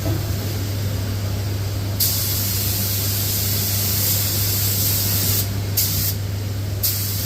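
Compressed-air spray gun spraying in a loud hiss that starts about two seconds in, cut into short bursts by trigger releases near the end, over a steady low hum.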